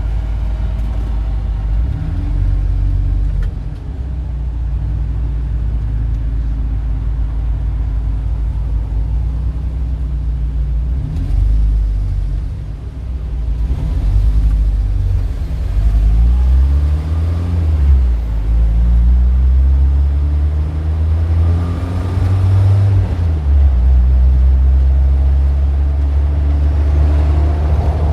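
Street traffic: several vehicle engines running with a deep, steady rumble, their pitch rising and falling as vehicles pull away and pass.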